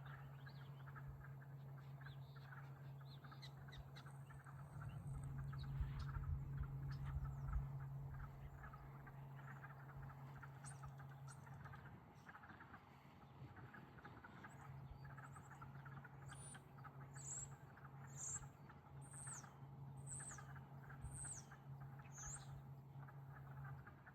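Bird ambience: a bird gives a series of about seven high, falling notes, roughly one a second, in the second half, over faint steady chatter and a constant low hum. A low rumble swells for a few seconds early on.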